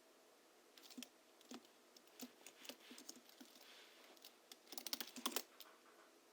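Typing on a Hansung GHL-5X keyboard tuned with lubricated springs and 50 g rubber domes: scattered soft keystrokes, then a quick run of keys about five seconds in, the loudest, before it stops.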